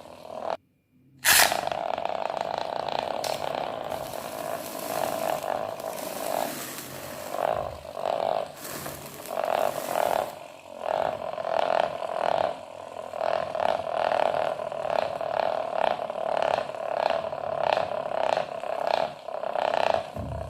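Homemade plastic spinning noisemaker (rotator toy) giving a croaking buzz. It cuts in abruptly just after a brief silence near the start, and in the second half it swells and fades about twice a second.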